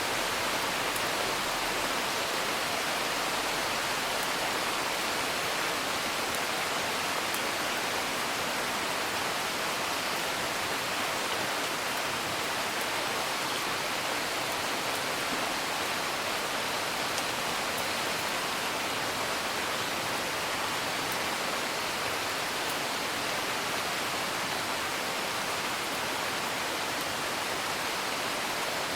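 Steady rain falling without a break, with a wood fire crackling faintly now and then.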